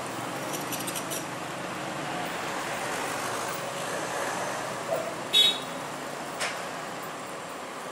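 Steady vehicle engine and traffic noise, with a few faint clicks early and one short, loud, high-pitched toot or squeal about five and a half seconds in.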